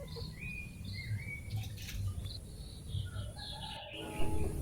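Birds chirping in a string of short, high calls, over a low rumble.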